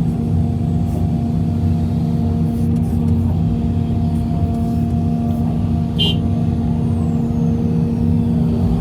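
Heavy diesel engine running steadily at a constant speed, with a brief high squeak about six seconds in.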